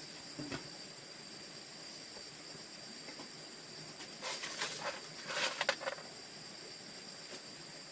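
Insects chirring steadily at a high pitch, with a short stretch of rustling and scraping about halfway through.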